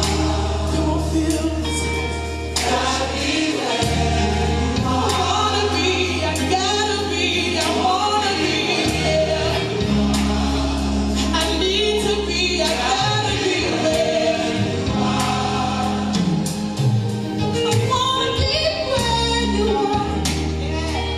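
Gospel music: a choir singing over a band, with long held bass notes and regular drum and cymbal hits.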